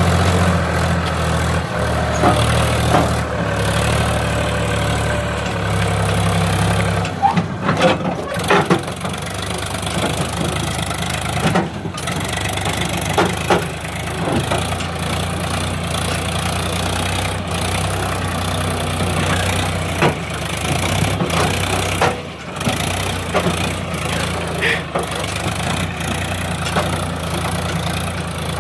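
Powertrac Euro tractor's diesel engine running steadily at low revs, its pitch shifting about seven seconds in, with scattered short knocks and rattles.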